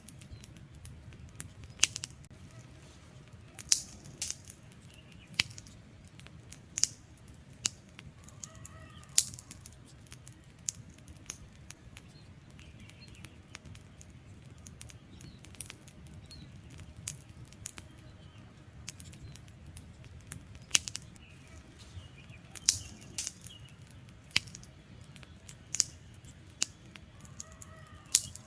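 Wood fire burning, with irregular sharp crackles and pops from the logs over a low steady rush of flame; a few pops stand out louder than the rest.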